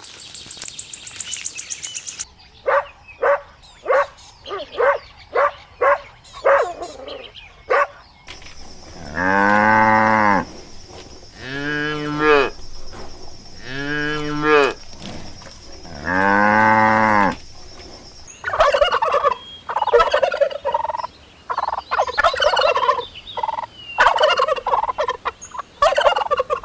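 A run of about ten short animal calls, then a cow mooing four times in long, deep calls, then turkeys gobbling in quick, rattling bursts over the last third.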